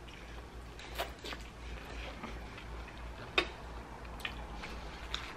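Close-miked chewing of soft, saucy cheese-covered fries: faint wet mouth clicks and smacks. A little over three seconds in comes one sharper, louder click as the metal fork is set down on the plate.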